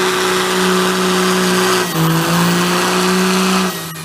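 Pickup truck engine held at full throttle while pulling the sled in a truck pull, a steady loud drone. Its pitch steps down about halfway through, and it falls away just before the end as the throttle comes off.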